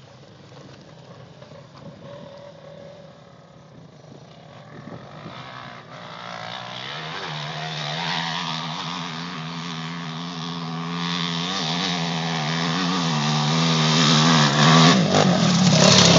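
Dirt bike engine running, faint at first and then steadily louder from about six seconds in, with a hard rev near the end.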